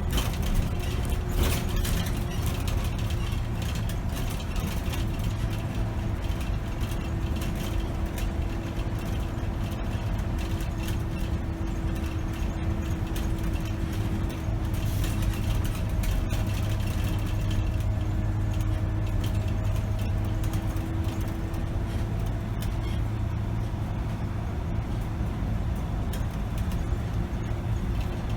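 2008 Scania K270 city bus driving on the road, heard from the cab: its five-cylinder diesel and drivetrain running with a steady low rumble and a whining tone that drifts slightly in pitch.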